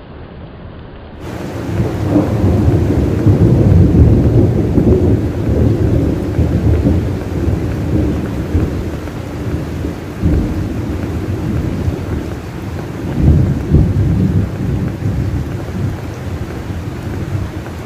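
Long rolling thunder over steady rain, picked up by a phone's microphone. The rumble breaks in about a second and a half in, is loudest a few seconds later, and swells again later on.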